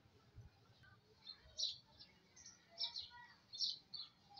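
Small birds chirping: a run of short, high chirps, about six of them, beginning about a second in and repeating irregularly.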